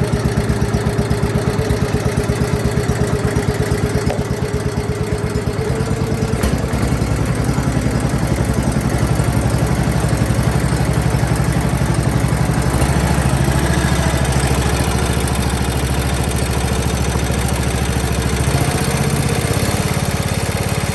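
John Deere 110 lawn tractor's single-cylinder engine running steadily at a fast idle, with a higher whine over the first six seconds or so.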